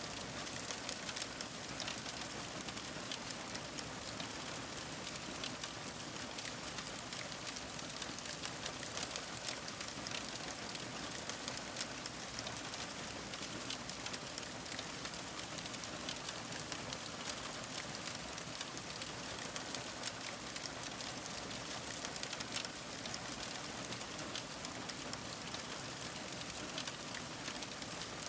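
Fire crackling: a steady hiss full of small, rapid pops and snaps throughout.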